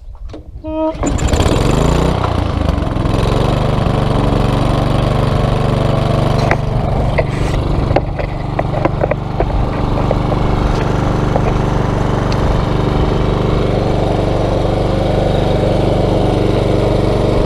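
Small gasoline engine starting about a second in, revving up briefly and then running steadily, started without starting fluid after its plugged carburetor jet was cleaned out.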